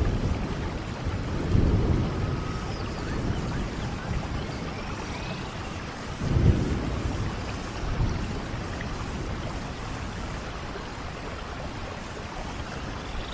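Steady rain in a rainforest thunderstorm, with low rolls of thunder swelling about 2 seconds in and again, loudest, about 6 seconds in, then easing off.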